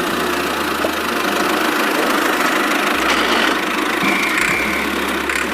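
An engine running steadily at idle-like speed, with a constant low hum.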